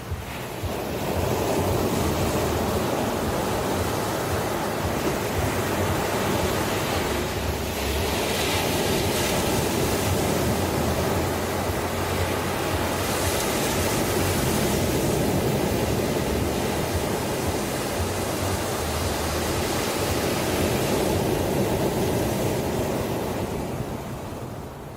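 Ocean surf: waves breaking and washing in a continuous rush that swells about a second in and ebbs near the end.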